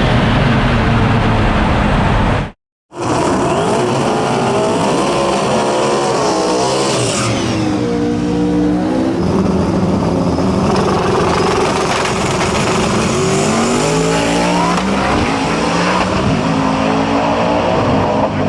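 High-horsepower drag-race car engines running hard and revving, their pitch rising and falling repeatedly. Near the start, a sudden gap of silence lasting about half a second.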